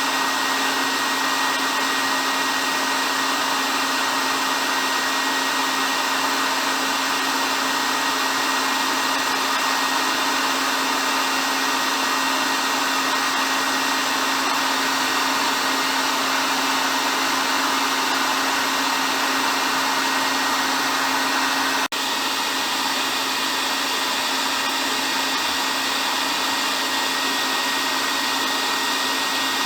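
Hair dryer running continuously: a steady rush of air with a low hum and a thin high whine, dipping for an instant about three-quarters of the way through.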